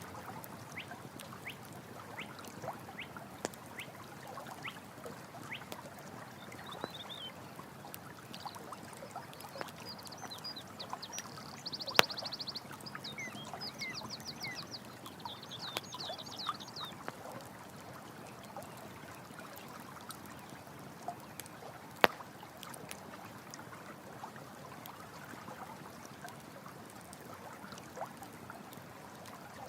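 Running stream water with a crackling campfire, with two sharp pops from the fire about a third and two thirds of the way through. In the middle, an animal gives quick high chirping calls in several short trains.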